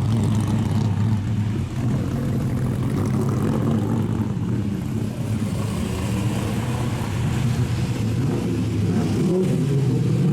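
Racing car engines running, a loud steady low drone, with the pitch bending near the end.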